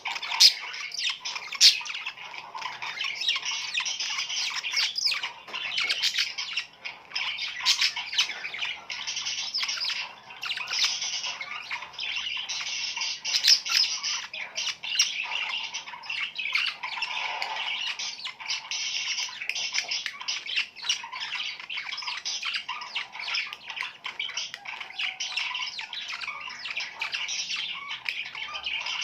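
A flock of budgerigars calling continuously, a dense chatter of many short high notes. This is budgie mating chatter, used to stimulate pet budgies to breed.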